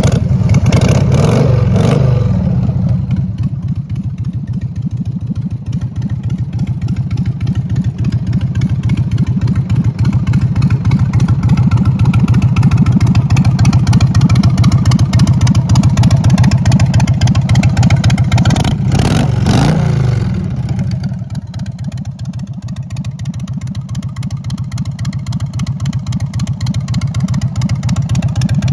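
Harley-Davidson Sportster XL883's air-cooled 883cc V-twin, breathing through short wrapped drag pipes, running freshly started. It is revved up briefly near the start and again about 19 seconds in, and otherwise idles, growing louder toward the end. The seller reports that the motor sounds good.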